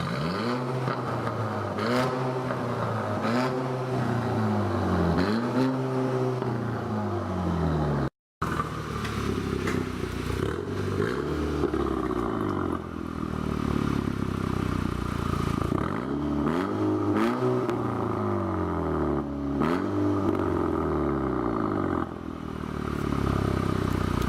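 Tuned Golf 6 GTI's 2.0 TFSI turbocharged four-cylinder engine revving up and dropping back repeatedly, picked up on a phone microphone. About eight seconds in, it cuts out for a moment and picks up again in a second take.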